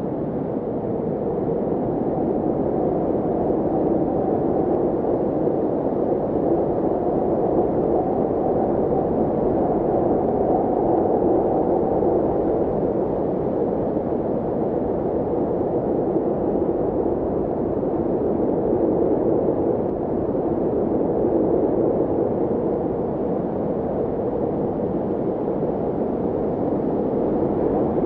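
Steady, dull rushing noise with no pitch or rhythm, even throughout.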